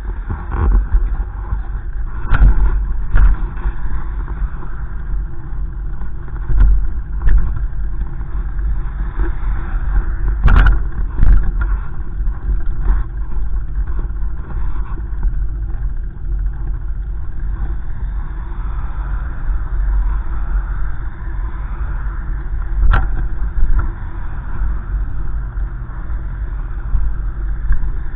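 Gusty wind rumbling and buffeting against the microphone, rising and falling unevenly, with a few sharp knocks from handling or bumps.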